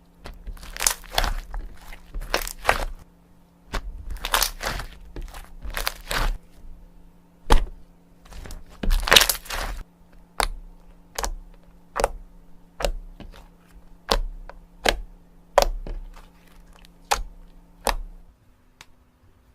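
Slime being pressed and pulled, giving sharp popping clicks: dense clusters at first, then single pops about one and a half a second, stopping shortly before the end.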